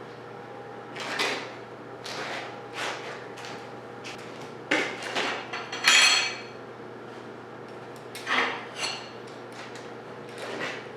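Loose steel pieces being handled and set in place for a butt weld, clanking against each other and the metal work surface. There are about eight separate clanks, and the loudest, about six seconds in, rings briefly.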